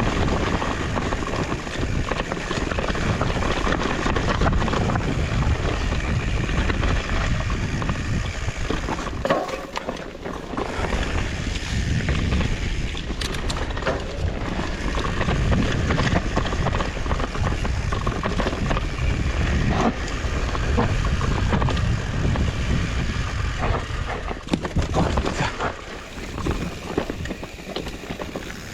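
Fat-tyre mountain bike riding a trail: wind buffeting the microphone over tyre rumble, with scattered sharp knocks and rattles from the bike on rough ground. It eases off a little near the end.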